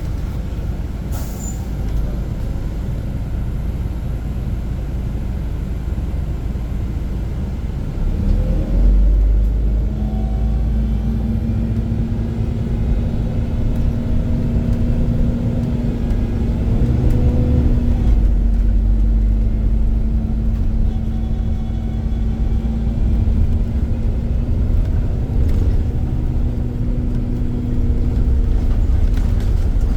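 Diesel drivetrain of an Iveco Crossway LE Line 14.5 m bus, running low and steady, with a short hiss about a second in. About eight seconds in it gets louder and the engine note climbs as the bus pulls away, and a steady whine from the driveline then carries on under the engine.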